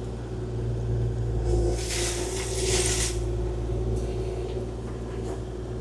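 Kubota KX040-4 mini excavator's diesel engine running steadily, with a hissing rush that starts about a second and a half in and lasts over a second.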